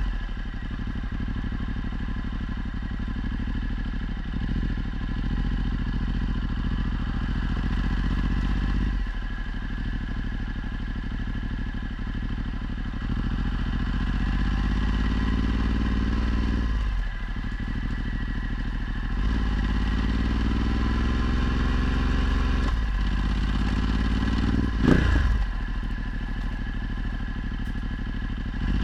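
Ducati Multistrada 1260's V-twin with a Termignoni exhaust, riding under way: the engine note climbs as it pulls through the gears and drops sharply at each shift. A short, loud thump comes near the end.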